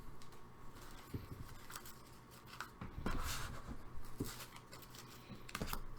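Faint scattered rustles and light taps of trading cards and their packaging being handled, a second or so apart.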